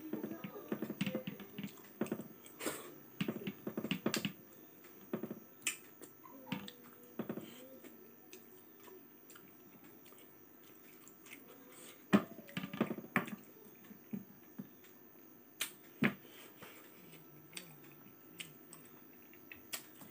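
Close-up eating sounds of a man eating by hand: wet chewing and sharp mouth clicks and smacks at irregular intervals. They come thickest in the first few seconds and again about twelve seconds in, with quieter stretches between.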